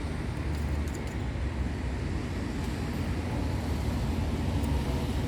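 Steady low rumble of background noise, like distant road traffic, with no bird song.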